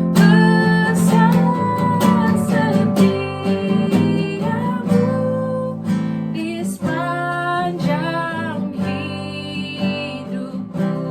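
Worship music with a strummed acoustic guitar and a melody line over it.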